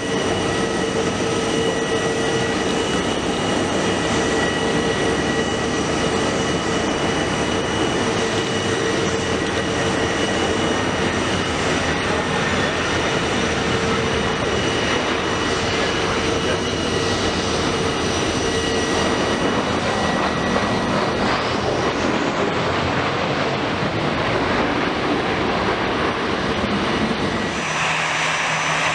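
Jet engines of an arriving easyJet Airbus A320-214, CFM56 turbofans, running with a steady rushing noise and whining tones that fade about two-thirds of the way through. The sound changes abruptly near the end.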